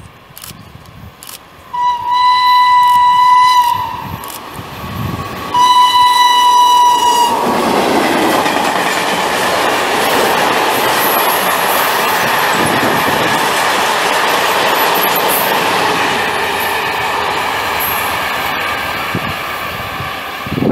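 Electric locomotive horn sounding two long, single-pitched blasts of about two seconds each, then a freight train of covered wagons rolling past close by, a steady loud rumble and clatter of wheels on rail that eases slightly near the end.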